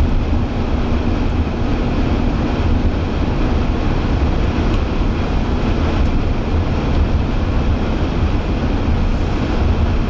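Steady road and wind noise of a moving vehicle heard from inside the cabin, a deep even rumble with a faint low hum that fades out about three seconds in.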